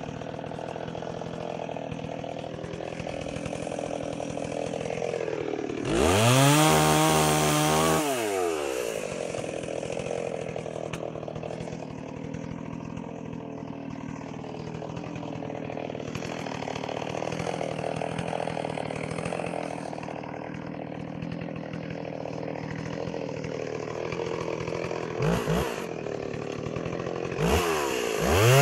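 Stihl 038 Magnum two-stroke chainsaw idling, revved up hard for about two seconds some six seconds in, blipped once briefly near the end, then revving up again as it closes.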